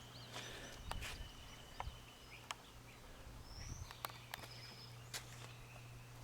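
Faint outdoor ambience: birds chirping in short calls, with a few sharp clicks and a steady low hum underneath.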